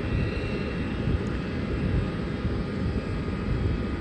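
Airbus A350 jet engines running steadily, a low rumble with a thin high whine over it.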